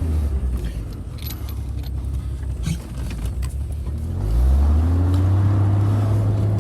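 Engine of a manual-transmission vehicle running low and steady, with light metallic clinks and rattles, then about four seconds in revving up, rising in pitch and getting louder as it pulls away.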